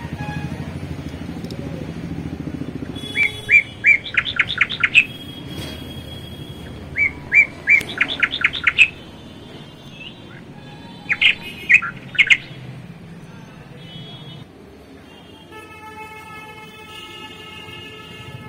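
A bird singing: three bursts of quick high chirps, each a short run of rapid notes, a few seconds apart.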